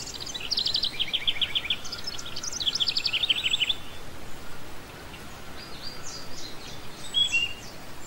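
Small songbird chirping in quick runs of high, rapidly repeated notes, two runs in the first four seconds, then fainter chirps and a short whistle near the end, over a steady hiss.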